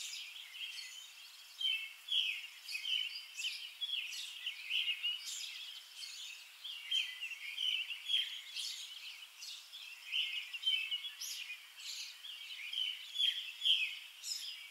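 Outdoor birdsong: a steady, busy run of short, high chirps and trills, with no low sounds beneath it.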